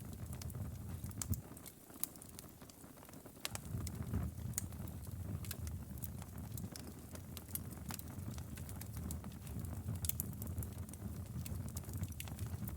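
Outdoor wood fire crackling, with scattered sharp pops and snaps over a low, steady rumble of burning. The rumble drops away briefly about two seconds in, then returns.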